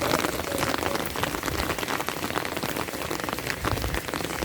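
Steady heavy rain, with many close, sharp drop impacts.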